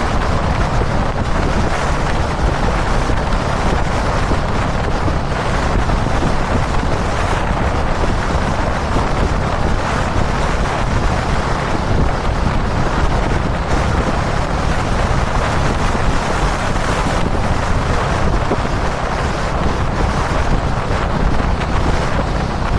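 Kawasaki Dominar 400's single-cylinder engine running steadily at highway cruising speed, under heavy wind buffeting on the camera microphone. The sound holds even throughout, with no shifting or revving.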